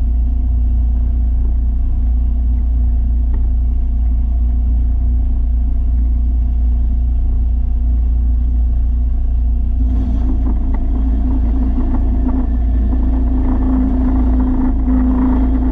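Steady, loud low machine rumble with a constant hum, joined by a rougher, grittier layer about ten seconds in.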